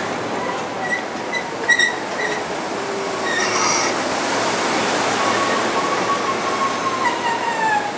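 Metro-North commuter train rolling past along the platform with steady wheel noise and wheel squeal. There is a short high squeal about three and a half seconds in, and a longer squeal that slides slightly downward in pitch near the end.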